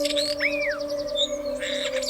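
Several birds chirping and calling over a steady background music drone. About half a second in there is a fast high trill and an arching call that falls in pitch, and near the end a short harsh burst.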